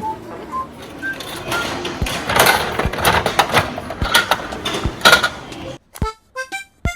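Close handling of a plastic gashapon capsule toy and its wrapping: crinkling and rustling with many sharp plastic clicks and taps. About six seconds in the handling noise stops and light plucked music notes start.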